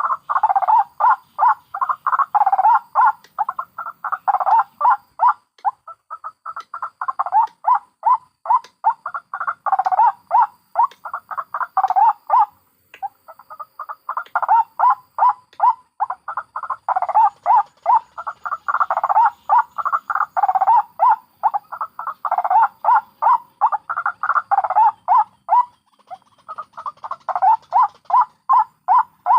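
White-breasted waterhen (ruak-ruak) calling: rapid runs of short, harsh repeated notes, several a second, with brief breaks about halfway through and near the end.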